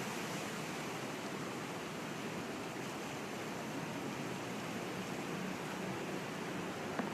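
Wind blowing steadily at night, an even rushing noise that holds level without gusting up or down, with a small click near the end.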